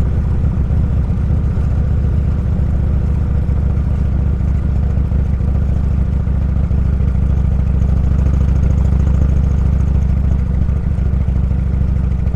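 Motorcycle engine running steadily while riding, an even low drone that holds the same pitch throughout.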